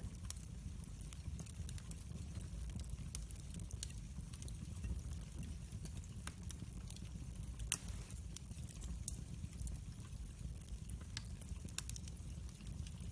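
Wood fire crackling: scattered sharp snaps and pops over a low rumble, with one louder pop a little before eight seconds in.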